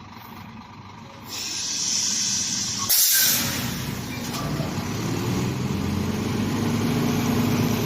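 Heavy diesel truck launching from a standstill: a short, loud burst of air-brake hiss about three seconds in, then the engine pulls under load, its pitch rising and then holding.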